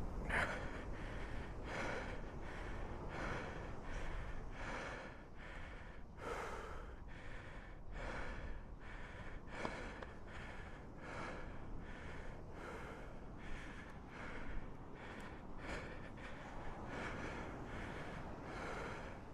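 A man panting hard after heavy exertion, a steady run of loud breaths in and out close to the microphone, winded from lifting a loaded motorcycle out of sand.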